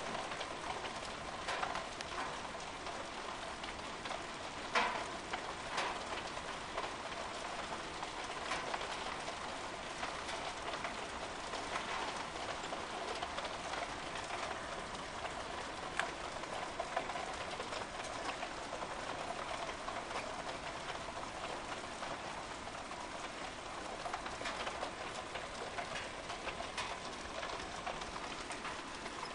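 Hailstorm: hail and rain falling, a steady hiss dotted with many sharp separate impacts.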